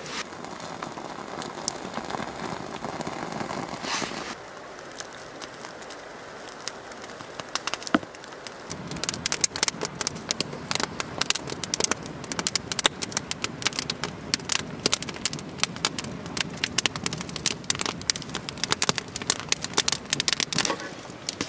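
A steady hiss, then from about nine seconds a small campfire of gathered wood crackling, with dense sharp pops.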